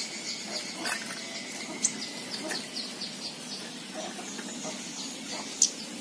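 Small bird chirping: quick, high chirps, a run of them from about one to three seconds in, with a few sharp clicks from the wire cage being handled.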